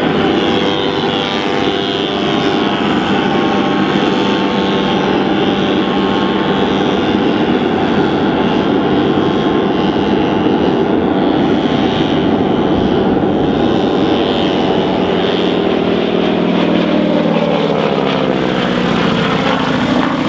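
Propeller engine of a radio-controlled model aeroplane running steadily in flight, its pitch shifting in the last few seconds as it changes speed or passes by.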